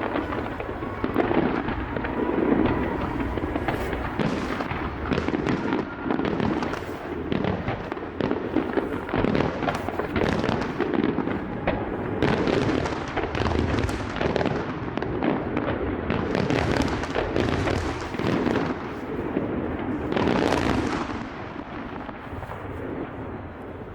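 Aerial fireworks display: a dense barrage of shell bursts, bangs and crackles overlapping one another, easing off near the end.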